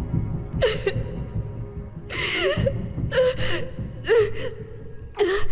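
A woman gasping and whimpering in fear, about five short breathy cries a second or so apart, over a low, dark film score.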